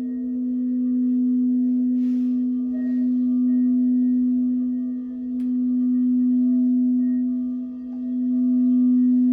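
Crystal singing bowls ringing with a strong, steady low tone and several quieter higher tones over it, the sound swelling and fading in slow waves. A brief soft hiss comes about two seconds in.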